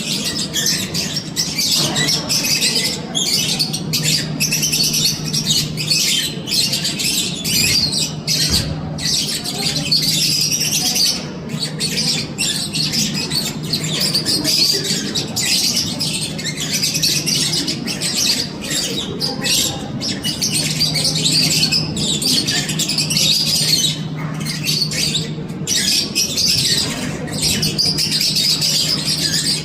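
Many caged birds chattering and squawking all at once in a dense, unbroken din, over a low steady hum.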